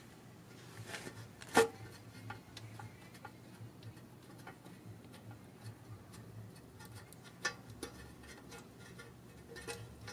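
Scattered light clicks and metallic taps of hand tools and parts being handled, with a louder clack about one and a half seconds in, over a steady low hum.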